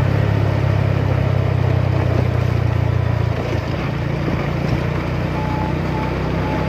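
Motorcycle engine running while under way, over a steady noisy rush. The engine note drops and eases a little about halfway through.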